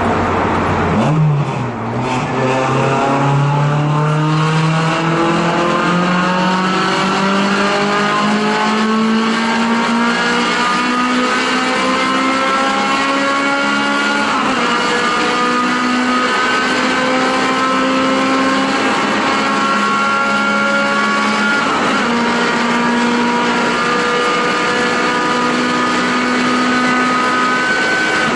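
Honda S2000 AP1's 2.0-litre F20C inline-four, breathing through a Mugen exhaust manifold and Spoon N1 exhaust, accelerating hard under full load: the engine note climbs steadily, drops slightly at an upshift about 14 seconds in, climbs again, and shifts once more about 22 seconds in before climbing again. These are upshifts through fourth, fifth and sixth gear.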